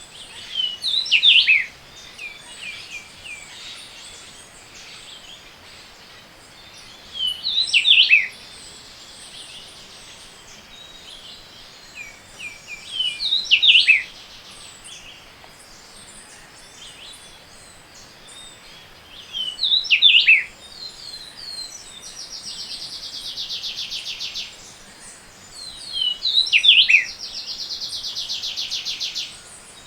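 Tropical forest dawn chorus: one songbird repeats a loud phrase of quick, high, descending whistled notes about every six seconds over fainter calls from other birds. Twice in the second half, a long, even, buzzy trill runs for two to three seconds.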